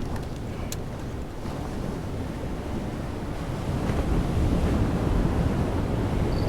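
Wind rumbling on the microphone over the wash of sea surf, a steady low noise that grows louder about four seconds in.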